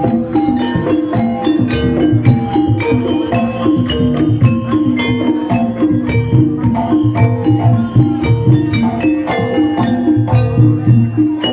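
Jaranan gamelan ensemble playing: a fast, busy run of short struck pitched notes over a steady low drum beat.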